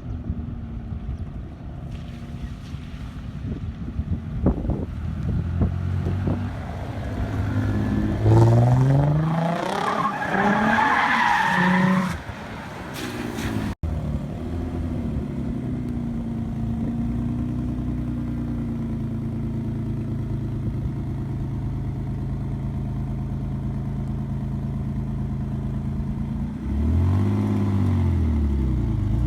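Nissan 300ZX (Z32) V6 engine and exhaust running. The revs climb sharply a third of the way in, then after a brief cut the engine settles into steady running, and a rev rises and falls near the end.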